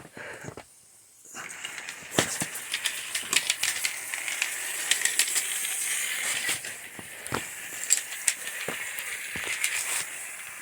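Antique live-steam toy locomotive running: a steady hiss of escaping steam with many irregular clicks and rattles, starting about a second in.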